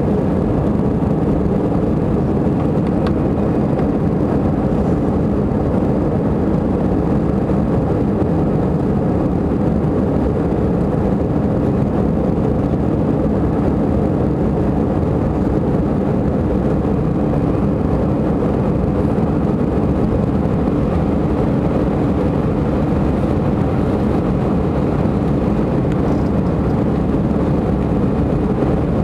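Jet airliner at takeoff power: a steady, low-pitched noise of engines and airflow that holds at one level without rising or falling.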